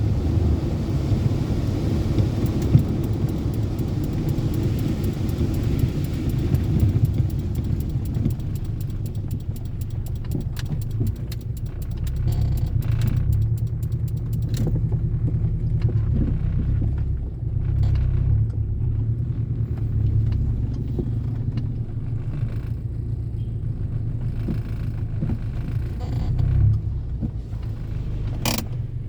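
Toyota Corolla AE80 saloon on the move, its engine running with a steady low rumble and road noise. A fast run of ticks comes in the middle, and there is one sharp click near the end.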